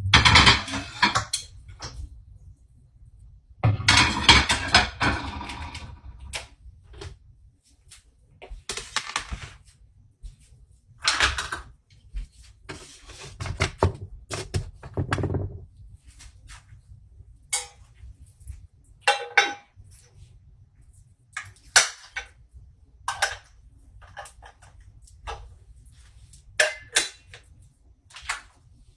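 Intermittent clatter, knocks and clicks of things being handled, like dishes and utensils. There are longer stretches of rustling handling about four and eleven seconds in, then sparse sharp clicks.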